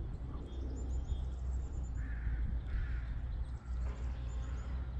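Two harsh bird calls in quick succession about two seconds in, over a steady low outdoor rumble.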